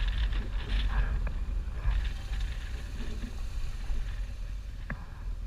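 Motorcycle ride heard on the rider's camera: a steady low rumble of wind buffeting the microphone over the running engine, with a couple of faint clicks.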